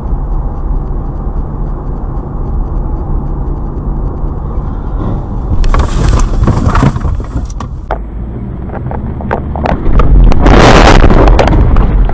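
Car driving, heard from a dashcam: a steady low rumble of engine and tyres. A burst of noise comes about six seconds in, then a much louder, harsh crunching noise with rapid clicks lasting about two seconds, near the end: a vehicle collision.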